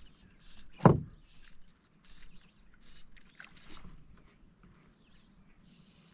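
A single sharp knock against the canoe about a second in, then faint scattered small clicks of gear shifting in the boat.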